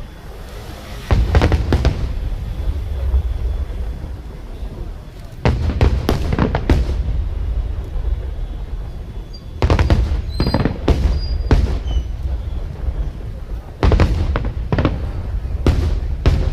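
Aerial fireworks shells bursting: four volleys about four seconds apart, each a quick series of sharp bangs over a deep rumble.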